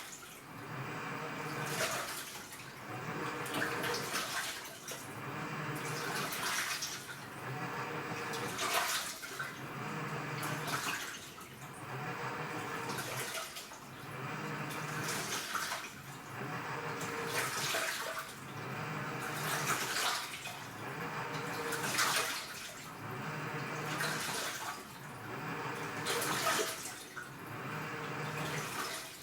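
AQUA washing machine agitating its wash load in water: the DDM inverter motor hums as it turns the load, then reverses about every two seconds, with water sloshing and swishing at each change of direction.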